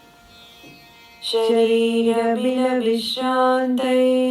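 A pause, then a voice chanting a Sanskrit verse in slow, melodic recitation, starting about a second in. The chant moves in held notes that step between a few pitches.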